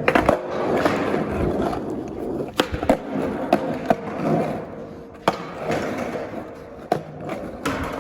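Skateboard wheels rolling on concrete, with about eight sharp clacks of the board spread irregularly through the ride.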